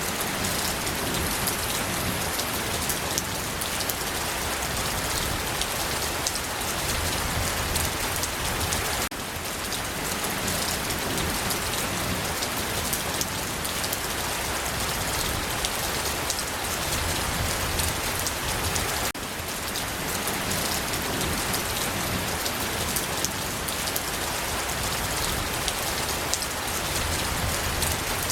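Steady rainfall, a dense even hiss with individual drops ticking on a surface. The level steps down slightly twice, at about 9 and 19 seconds in.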